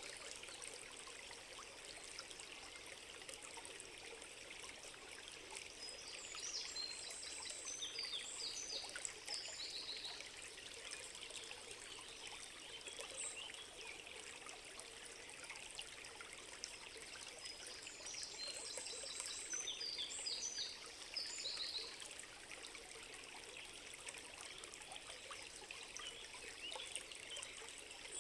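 A stream trickling steadily, with a songbird singing two similar phrases of rapid high notes, one about six seconds in and the other about eighteen seconds in.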